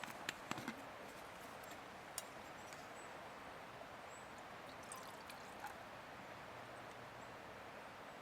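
Steady rush of river water flowing, with a few sharp clicks in the first couple of seconds.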